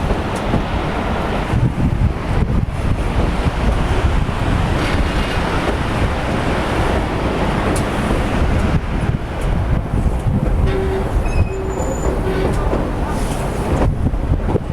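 Durango & Silverton narrow-gauge train rolling along the track, a loud steady rumble of wheels on rail, with brief thin wheel squeals between about ten and twelve seconds in.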